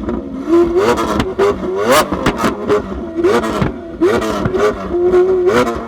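Lamborghini Aventador V12 with an aftermarket Capristo exhaust revved in quick blips about five times, very loud, with sharp pops and bangs from the exhaust as the revs drop, the exhaust spitting flames.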